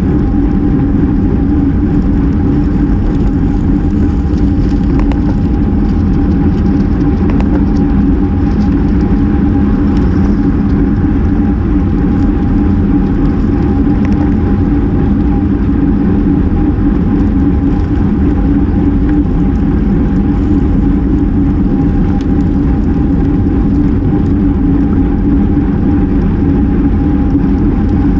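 Steady, loud rush of wind and road noise on a bike-mounted action camera riding at race speed, with a constant low hum underneath.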